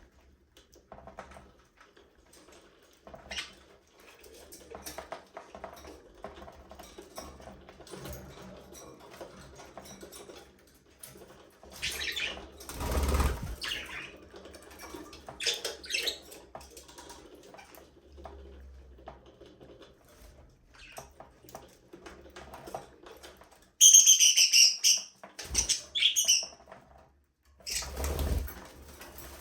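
Budgerigars chirping and warbling, with wings flapping. There is a broad burst about halfway through, and a run of loud, high, warbling chirps a little before the end.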